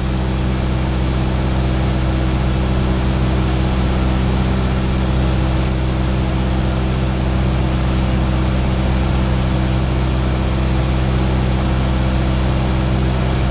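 Cessna 172R's four-cylinder Lycoming engine and propeller droning steadily in flight, a constant low hum with several steady tones under a wash of noise.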